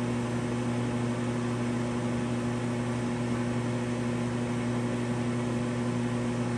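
Gas furnace's combustion (draft inducer) fan running with a steady hum, the start-up stage while the hot-surface igniter heats up before the gas valve opens.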